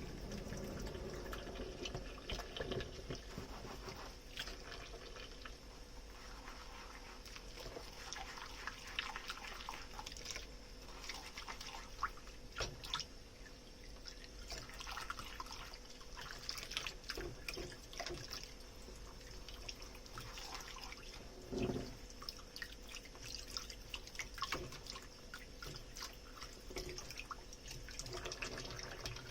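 Dishes being washed in a kitchen sink: water splashing and dripping, with many light clinks and taps of dishware and a louder knock about two-thirds of the way through.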